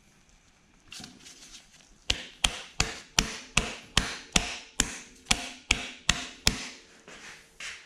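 Hammer tapping a part into place on a Bridgeport milling machine's motor during reassembly: a steady run of about a dozen sharp strikes, a bit over two a second, with a few lighter clinks before and after.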